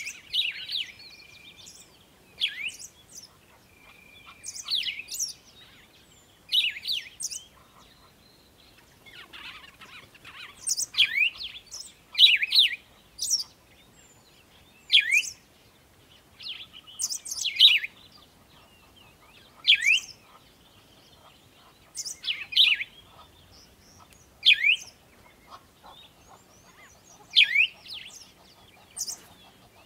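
Birds calling: a short note that slides down in pitch, repeated about every two seconds, with fainter high chirps in between.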